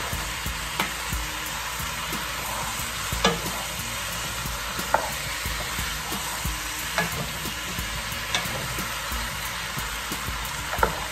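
Chopped vegetables sizzling in a pot while a wooden spoon stirs them, with a few scattered knocks of the spoon against the pot.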